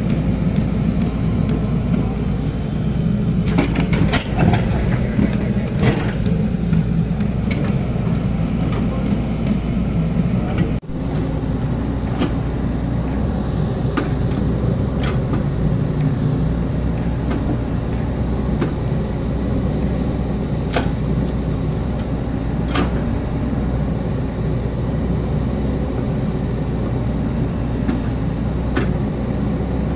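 Hydraulic excavator's diesel engine running steadily while digging, with scattered sharp clanks and knocks from the bucket and soil or stones. The sound drops out briefly about eleven seconds in.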